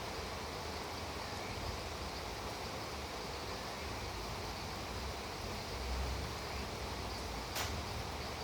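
Steady rain falling, an even hiss, with one sharp tick near the end.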